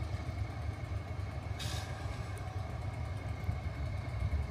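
Diesel locomotive engine idling with a steady low rumble, and a short hiss about a second and a half in.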